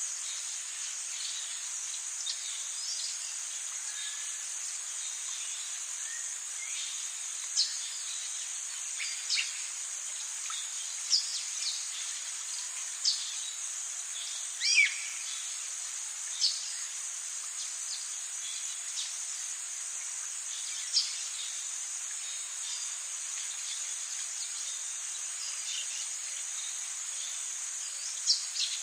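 Rainforest ambience: a steady high-pitched insect drone, with short bird calls and chirps sounding now and then over it, most of them in the first half.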